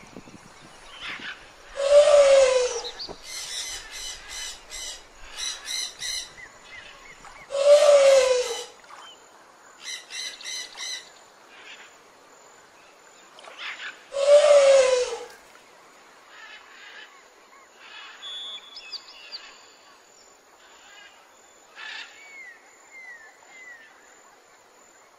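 Elephant trumpeting three times, about six seconds apart, each blast about a second long. Quieter rapid chirping fills the gaps, and thin bird-like whistles come near the end.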